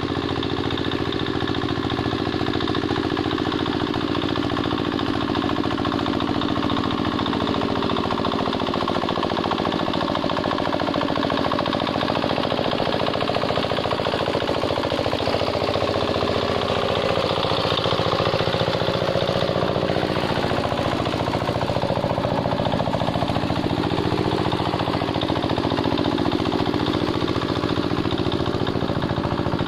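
Two-wheel hand tractor's single-cylinder diesel engine running steadily with a fast knocking beat, its note wavering a little around the middle.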